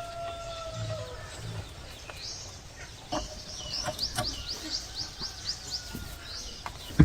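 The end of a rooster's crow, a held call that drops off about a second in, followed by a small bird singing a fast run of repeated high chirps. A few sharp knocks sound in between.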